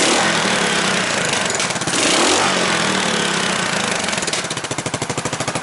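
Suzuki Savage 650's single-cylinder four-stroke engine running, a rhythmic pulsing beat; the pitch dips and comes back up about two seconds in, and the separate pulses stand out plainly near the end.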